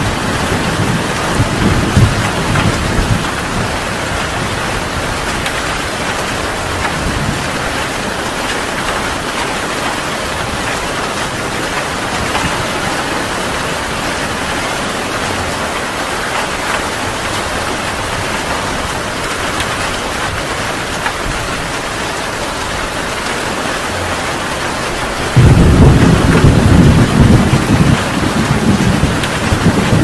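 Heavy rain falling steadily, with thunder rumbling. Low rumbles fade out over the first few seconds, then a loud peal of thunder breaks in suddenly near the end.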